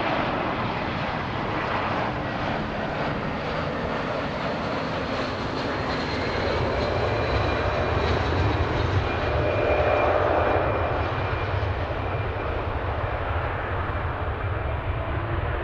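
Jet aircraft engines running with a broad rush and a faint high whine, growing a little louder to a peak about ten seconds in as the plane passes.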